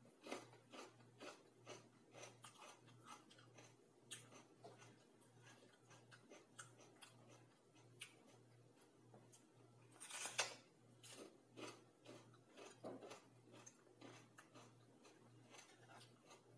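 Mouth noises of someone biting and chewing raw green bell pepper: irregular crisp crunches and small clicks, with one louder crunch about ten seconds in. A faint low hum runs underneath.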